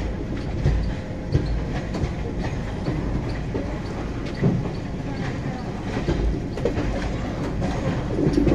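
Garib Rath Express passenger coach running on the track, heard from inside the coach: a steady low rumble of the wheels with irregular clickety-clack and a few louder knocks as they pass over the rails, while the train comes into a station.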